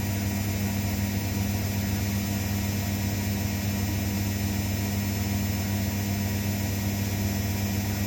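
Zanussi washing machine running with a steady, unchanging hum.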